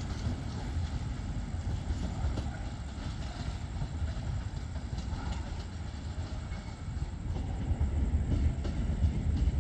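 Low, steady rumble of a diesel train running at the station, with faint clicks, growing a little louder near the end.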